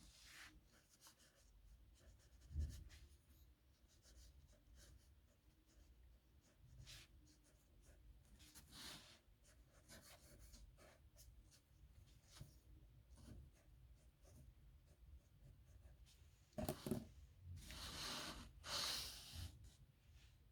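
Nib pen scratching across paper in short, faint strokes, with a louder run of strokes near the end. A single low knock sounds a few seconds in.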